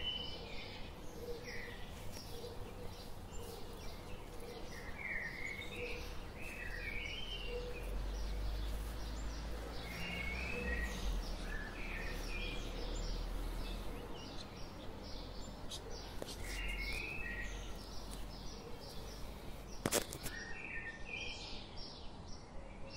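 Small birds chirping in short repeated phrases over outdoor background noise. A low rumble swells in the middle, and a single sharp click comes near the end.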